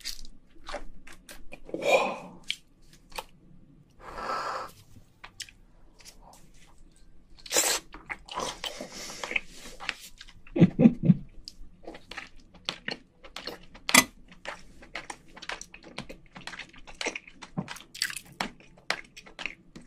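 Close-miked chewing and biting of cooked king crab leg meat, with wet mouth clicks and smacks all through. Near the start there is cracking as the crab leg shell is twisted apart.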